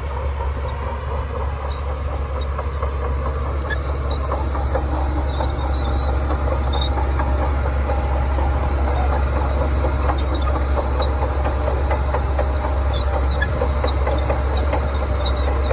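Shantui DH17C2 crawler bulldozer working: its engine drones steadily and deep, with the clatter and clank of its steel tracks running on top. It grows a little louder over the first few seconds.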